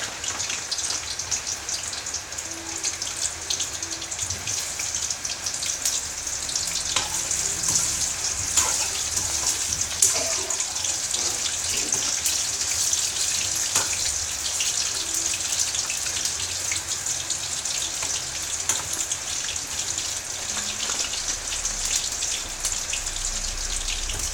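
Beef balls frying in hot cooking oil in a pan: a steady sizzle full of small crackles and pops, growing a little livelier after several seconds, with rain noise mixed in.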